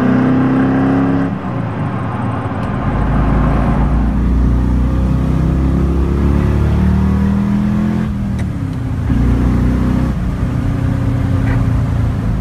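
The 1972 De Tomaso Pantera's 351 Cleveland 5.8-litre V8, with Hall Pantera headers and exhaust and a Holley four-barrel carburettor, pulling under acceleration. The engine note climbs in pitch and breaks off briefly at gear changes about a second and a half in, around eight seconds in and again near ten seconds.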